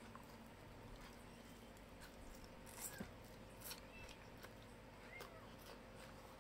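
Faint close-up eating sounds of fried chicken and rice eaten by hand: scattered wet mouth clicks and small squeaks from chewing, with a few sharper clicks about three seconds in.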